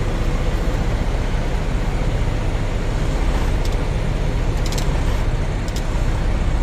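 Steady low rumble of a Freightliner Cascadia's diesel engine idling, heard inside the cab, with air blowing from the cab fan. A few faint clicks in the second half.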